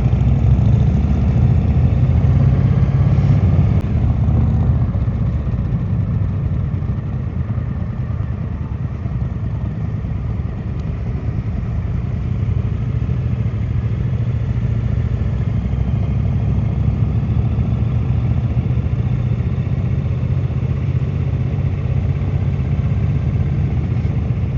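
2016 Triumph America motorcycle's parallel-twin engine running steadily, dipping slightly in loudness a few seconds in.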